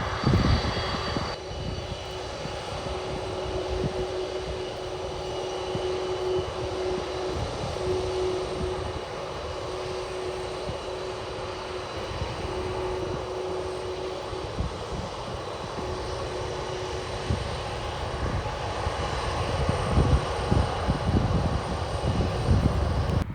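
Boeing 747-400F's four jet engines running with a steady roar, a continuous hum in it that fades in and out, and gusts of low rumble.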